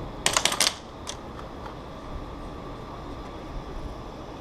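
A quick cluster of about four sharp clicks or knocks, then a single one about a second in, over a faint steady background.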